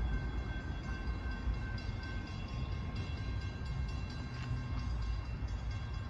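Distant approaching freight train: a steady low rumble, with faint high steady tones running over it.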